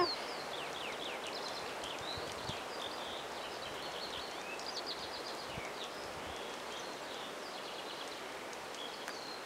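Several songbirds singing, many short quick chirps and sweeping notes overlapping, over a faint steady outdoor hiss.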